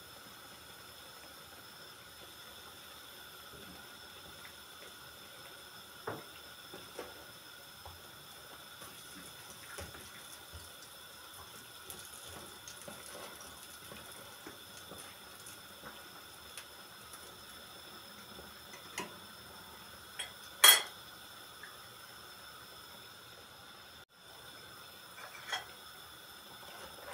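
Kitchen work: scattered light clinks and knocks of utensils against dishes over a faint steady hiss, with one loud sharp clatter about two-thirds of the way through.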